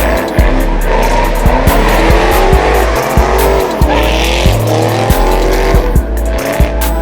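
Car tyres squealing in a long sliding burnout, with bass-heavy music and a steady beat playing loudly over it.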